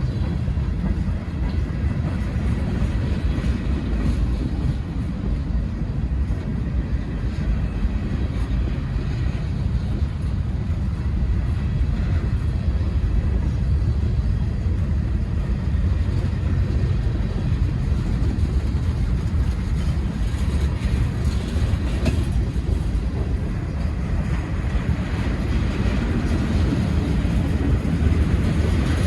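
Freight train of hopper cars rolling past, a steady low rumble of wheels on the rails.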